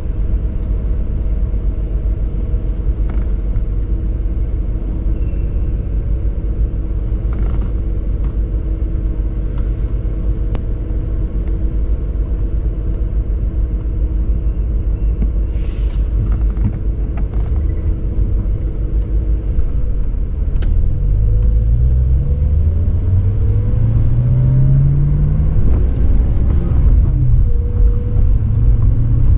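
BMW 540i's 4.4-litre V8 idling steadily, then pulling away about two-thirds of the way in: the engine note rises for several seconds, drops at a gear change, and rises again.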